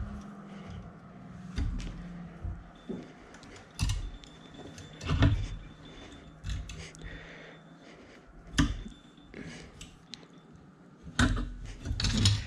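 A new brass bush being driven into the Polaris Ranger park brake assembly: a few sharp, irregularly spaced metal knocks, the bush going in as a tight fit.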